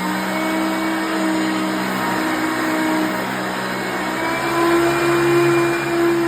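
Hoover Concept One upright vacuum cleaner running steadily, a motor whine over the rush of air, having just been switched on.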